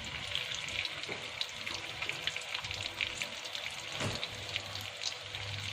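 Egg-coated chicken leg pieces sizzling and crackling as they shallow-fry in hot oil in a non-stick pan, with a soft knock about four seconds in.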